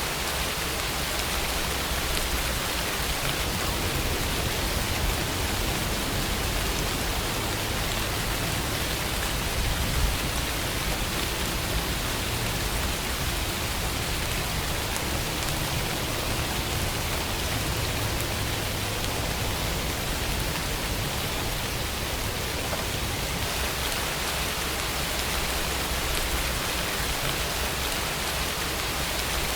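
Steady rainfall, an even hiss of rain falling on surfaces, with a low rumble beneath it.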